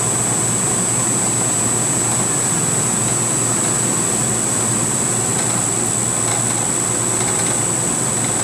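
Belt-drive CNC milling machine running a cut. The spindle and cutter make a steady machining noise with a high, steady whine.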